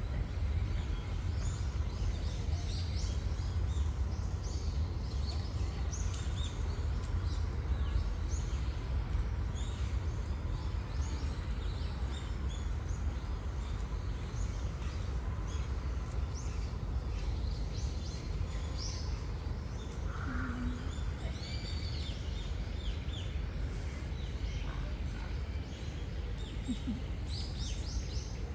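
Small birds chirping in short, high calls scattered throughout, over a steady low background rumble.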